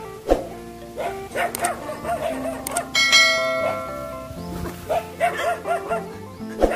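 A stray dog barking repeatedly in short yapping runs. About three seconds in, a bell chime strikes once and rings away slowly.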